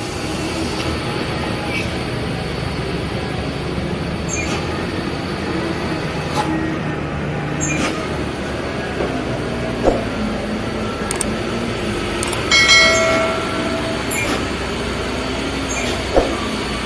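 Steady traffic of heavy trucks and cars with engines running, a few sharp knocks, and a short horn blast about twelve and a half seconds in.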